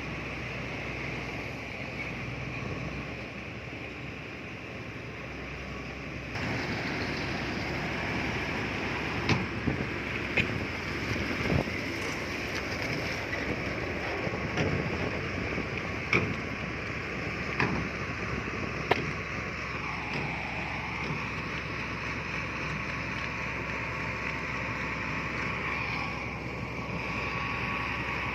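Heavy earthmoving machinery running with diesel engines, with several sharp metallic clanks from the working gear. The sound gets suddenly louder about six seconds in, and the engine note dips and then settles about two-thirds of the way through.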